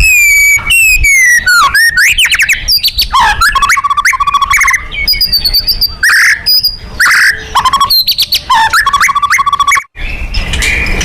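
White-rumped shama singing loudly: a fast, unbroken run of varied clear whistles, sliding notes and rapid trills, with a brief break about ten seconds in.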